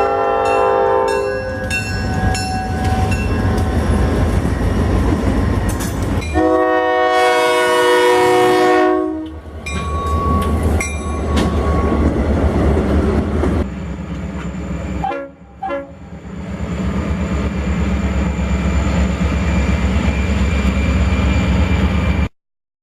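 GP40-2 locomotive passing close by at a crawl: its Leslie RS5T five-chime air horn sounds a chord that ends about a second in, then a second long blast of about three seconds, over the steady rumble of the EMD V16 diesel and the clack of wheels on rail. A crossing bell rings in quick, even strokes through the first half, and the sound cuts off abruptly near the end.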